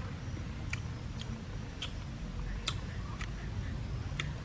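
A person eating cooked shrimp, chewing and lip-smacking: short sharp wet clicks at irregular intervals, about six of them.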